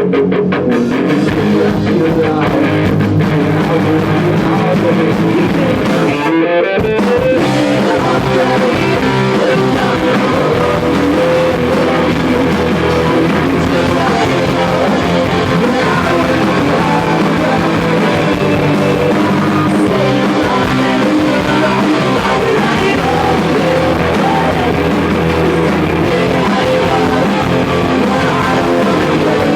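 Rock band playing live: electric guitars and drum kit, with a short break about six seconds in before the band comes back in.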